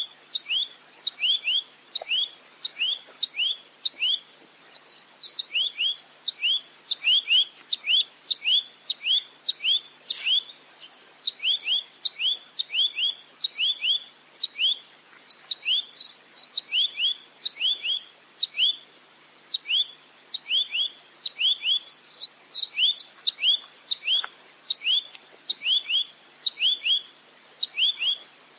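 Nuthatch (rambatan) calling in a long, rapid series of short, high notes, each falling in pitch, about two to three a second, with occasional higher twittering notes among them.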